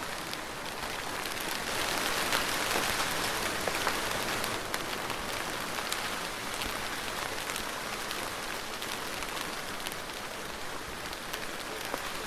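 Steady soft rain falling, with fine drop patter on a surface; it swells a little louder for a few seconds near the start, then settles.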